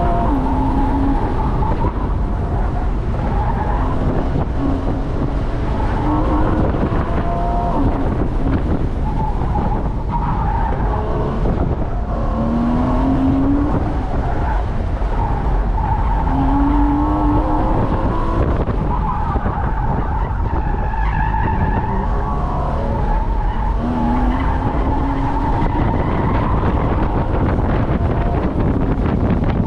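Porsche Boxster S's mid-mounted 3.4-litre flat-six under hard acceleration on an autocross course, its pitch climbing in short rises several times, over a constant low road and wind rumble. Tires squeal on and off as the car is pushed through the corners.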